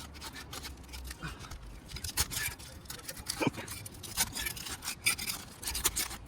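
Irregular scraping and sharp clicks of a tool worked under asphalt roof shingles, breaking the sealant strips that bond them together. The shingles are brittle and hail-damaged.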